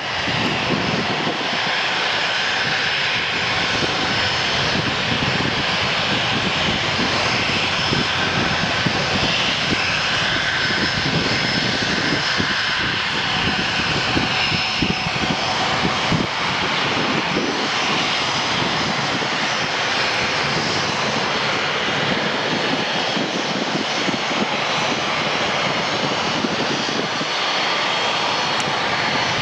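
Business jet's turbofan engines running loud and steady, a dense rushing noise with a high whine on top that shifts slightly in pitch about halfway through.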